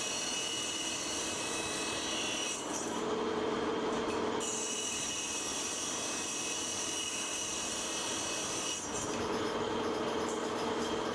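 Metalworking machinery running on steel with a steady scraping, rubbing sound and thin ringing tones; it changes character about three seconds in and again near the end.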